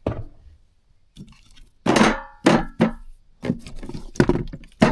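Jars and food containers knocking and clattering as they are taken out and set down, a string of sharp knocks with the loudest around two seconds in.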